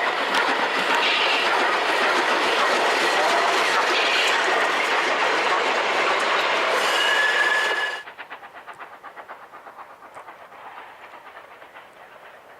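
Train running on rails, loud and noisy, with a brief high steady tone about seven seconds in. It then drops abruptly to a much quieter, rhythmic clickety-clack of wheels over the rails.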